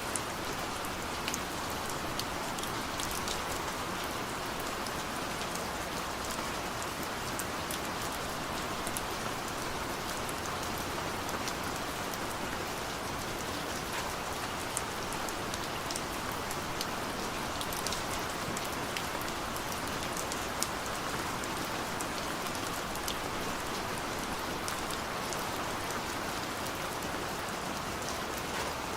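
Heavy rain pouring steadily: a dense, even hiss with scattered sharp clicks of individual drops striking a surface.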